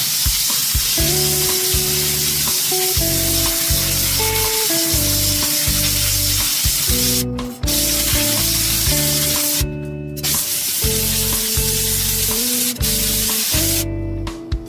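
Kärcher SC4 steam cleaner jetting steam in a steady loud hiss, cutting off briefly a few times as the trigger is released, over instrumental background music.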